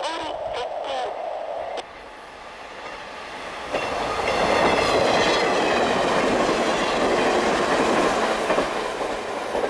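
A JR East electric multiple-unit train runs through snow and passes close by. It grows loud from about four seconds in, with wheels clattering over the rail joints and a whine that falls in pitch as it goes by. In the first two seconds, before the train is heard, there is a short patterned sound from the train-approach warning receiver.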